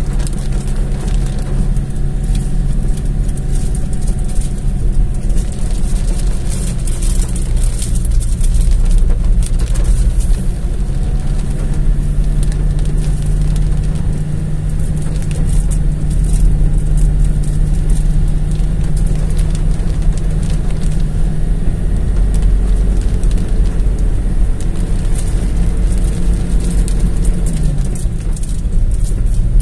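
Car engine running steadily under load, heard from inside the cabin, with heavy rain hitting the roof and windscreen as scattered sharp ticks over a hiss. Near the end the engine note drops briefly and rises again.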